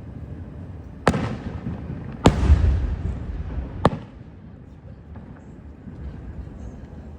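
Aerial fireworks shells bursting: three sharp bangs, a little over a second apart, the middle one the loudest, each trailing off in a low rolling rumble.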